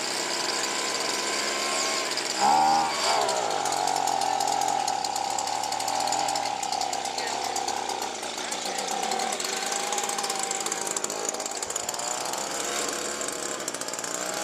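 Small gasoline engine running steadily, its pitch dipping and recovering briefly about two and a half seconds in.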